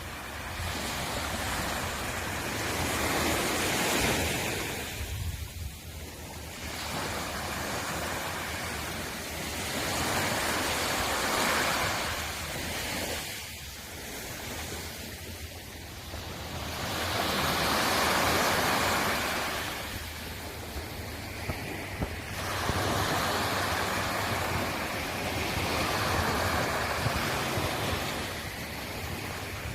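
Sea waves breaking on a shore: each wave comes in as a rush of surf that swells and fades, one every five to seven seconds.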